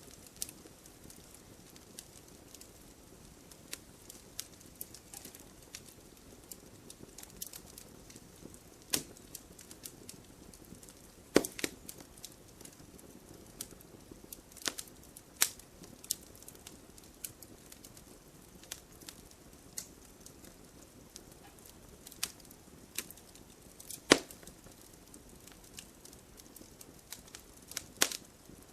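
Wood fire burning slowly in a fireplace: irregular crackles and sharp pops, a few louder snaps among many small ticks, over a faint steady hiss.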